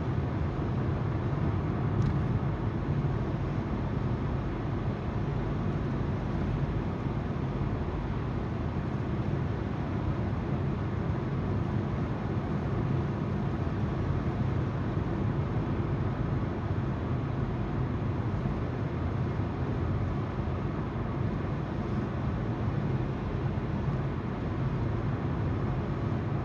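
Steady tyre and road noise with the hum of the car's engine, heard from inside the car while driving.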